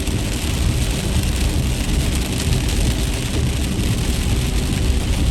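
Car driving at highway speed through heavy rain, heard from inside the cabin: a steady low road and tyre rumble with rain hissing on the car.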